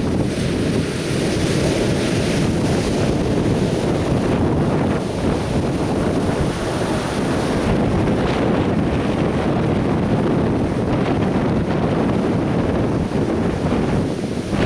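Atlantic surf breaking and washing on a beach, a steady loud rush with no pause, with wind buffeting the microphone.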